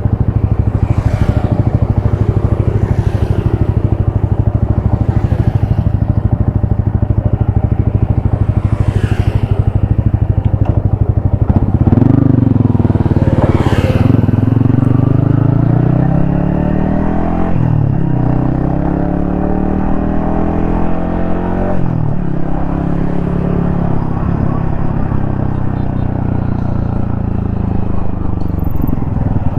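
Yamaha XSR155 single-cylinder engine running at low, steady revs, with other traffic swishing past. About twelve seconds in it accelerates hard with a rising note, which drops sharply twice at upshifts before settling into a steadier cruise.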